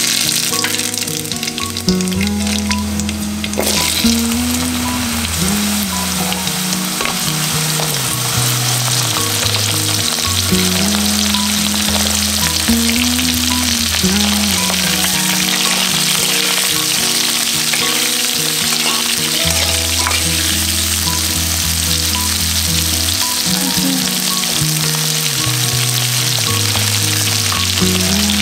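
Hot oil sizzling in a kadai as radhuni seeds, then chunks of pumpkin and pointed gourd, fry. The sizzle is harshest for the first few seconds and runs under background music with a slow melody.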